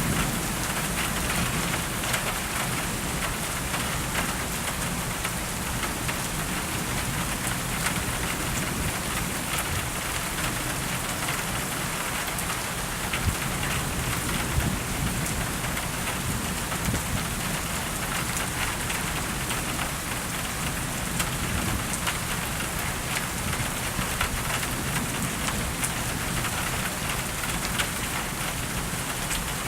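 Steady rain during a thunderstorm, with many individual drops striking hard surfaces close by and low rumbles of thunder now and then.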